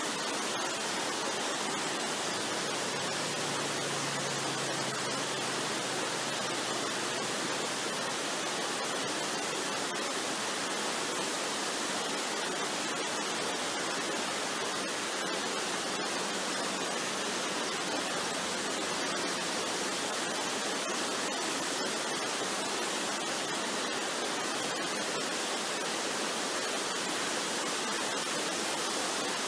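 Waterfall: steady rushing water, an even unbroken hiss.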